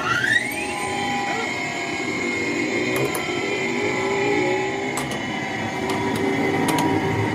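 A workshop power tool's motor finishing its spin-up, rising in pitch for the first half second, then running at speed with a steady high whine. A few light clicks fall in the middle and near the end.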